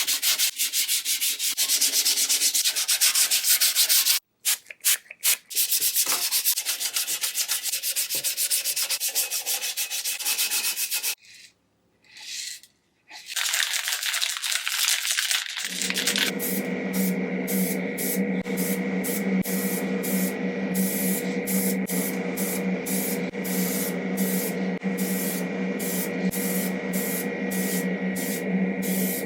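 Rust being stripped from metal toy parts by abrasive work: a loud grating hiss in stop-start passes. From about halfway through, a powered tool runs steadily with a low hum and a higher whine, pulsing evenly.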